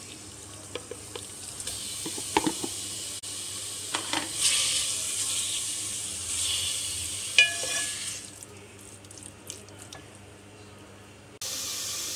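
Marinated chicken pieces sizzling in a hot metal pot (degchi) as they are tipped in and stirred, with scattered knocks and scrapes of the spoon against the pot. The sizzle dies down for a few seconds, then comes back louder near the end.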